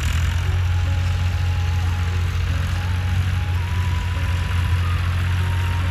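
Fiat 480 tractor's diesel engine running steadily with a deep, even drone.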